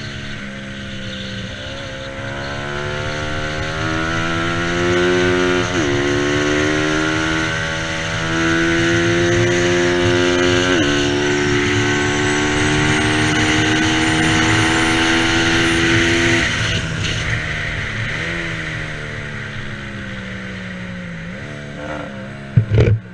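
Bajaj Pulsar 200 NS single-cylinder engine at racing speed, pulling through the gears. The pitch climbs and drops sharply at upshifts about six and eleven seconds in, then holds high. It falls in steps as the rider backs off and downshifts, and a couple of loud knocks come near the end.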